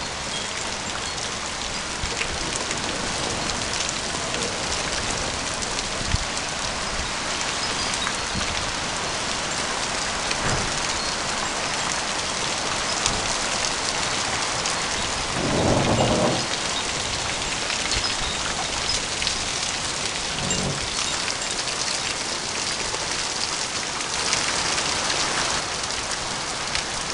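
Heavy storm rain pouring down, a dense steady hiss of rain on surfaces, with one louder swell lasting about a second about halfway through.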